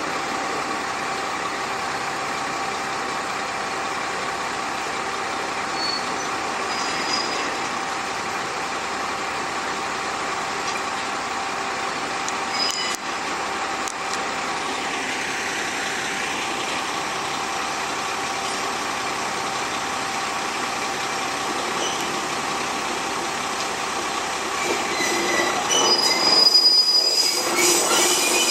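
Kanto Railway KiHa 532 diesel railcar creeping through a shunting move, its engine running steadily, with brief wheel squeals on the track. It gets louder near the end, with a sustained high squeal.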